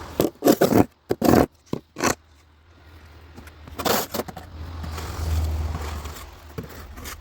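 Several short scrapes in quick succession, one more a couple of seconds later, under a low rumble that swells and fades.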